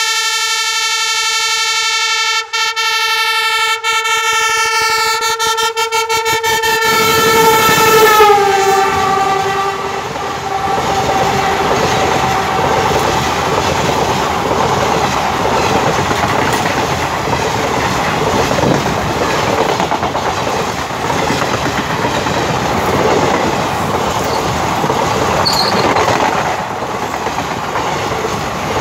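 WDP4D diesel locomotive's horn sounding one long, steady blast as the train approaches. Its pitch drops about eight seconds in as the locomotive passes, and the horn fades out. The steady rumble and clickety-clack of passenger coaches rolling past at speed follows.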